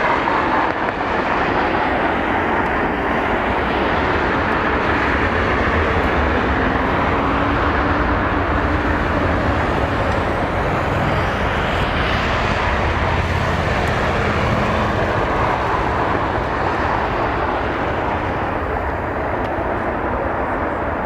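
Jet airliner engine noise near the runway: a loud, steady rumble with a faint hum that slowly shifts in pitch.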